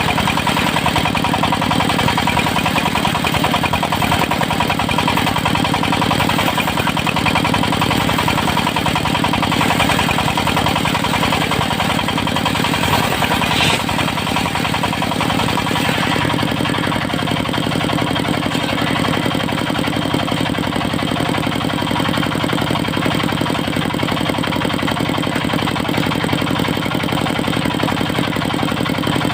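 Diesel engine of a portable circular sawmill running steadily. Its sound drops a little and loses some of its higher edge about halfway through.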